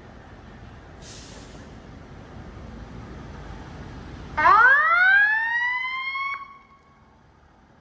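Fire engine siren sounding one rising wail that climbs in pitch, levels off and cuts off sharply after about two seconds. Before it the truck's low engine rumble runs, with a short hiss about a second in.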